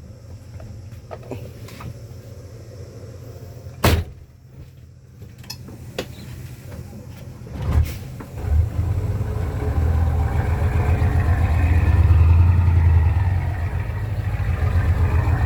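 Old loaded dump truck's engine running low and steady, with two sharp knocks about four and eight seconds in; then the engine comes up loud and labours under the heavy load of laterite soil, loudest a few seconds before the end.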